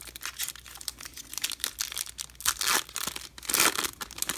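Foil wrapper of a Topps baseball card pack being torn and crinkled, a string of crackly rustles with the loudest about three and a half seconds in.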